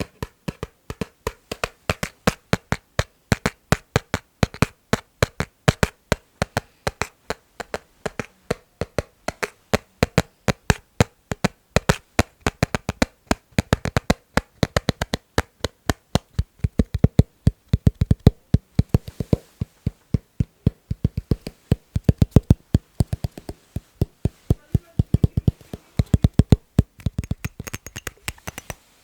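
Fingers tapping rhythmically on an object, quick sharp taps at about four a second in a steady pattern.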